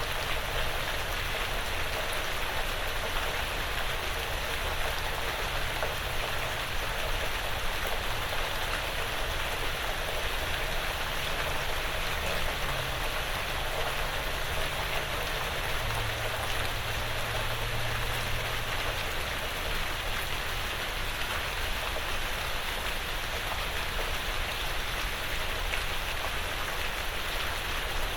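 Steady, even rain falling on a porch roof and the surrounding woods.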